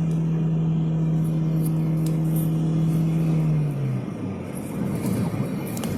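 Motor vehicle engine running with a steady low hum, which drops in pitch and dies away about four seconds in, leaving quieter road traffic noise.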